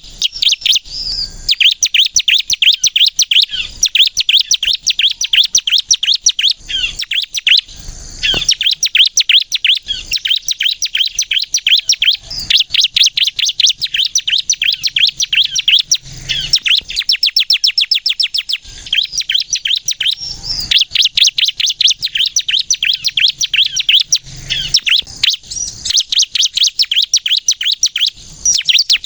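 Ciblek (bar-winged prinia, the 'kristal' type) singing vigorously: long runs of fast, high, sharp chattering notes, broken by brief pauses every few seconds.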